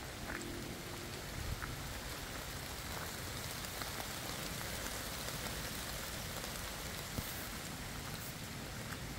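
Steady rain falling through a forest, with a few sharper drips standing out now and then.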